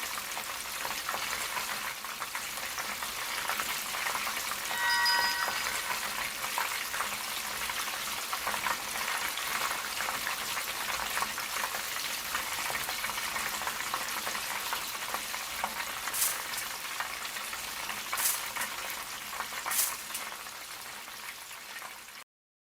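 Food frying in hot oil in a restaurant kitchen: a steady sizzle throughout. A short ringing tone sounds about five seconds in, and a few sharp clinks come near the end before the sound cuts off.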